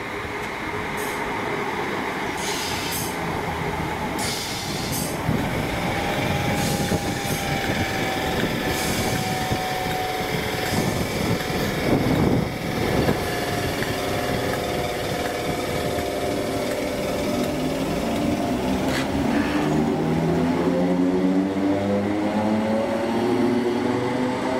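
Train running at the station, with steady rail and running-gear noise and a few brief high squeals in the first seconds. Over the last several seconds its engine or traction motor pitch rises steadily as it picks up speed.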